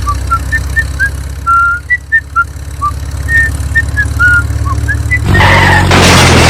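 Engine idling with a steady low hum, with short, high whistle-like chirps over it. About five seconds in, a loud, noisy rush starts.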